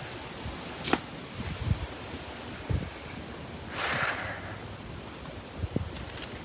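Strong wind blowing through trees and rustling the leaves, with a few low thumps, a sharp click about a second in, and a rushing swell about four seconds in.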